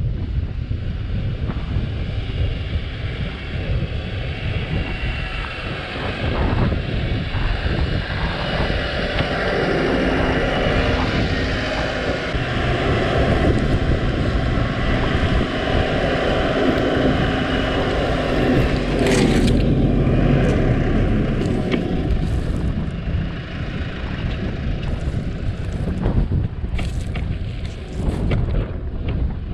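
New Holland T5 tractor engine running under heavy wind rumble on the microphone, with a few sharp knocks about two-thirds through and again near the end.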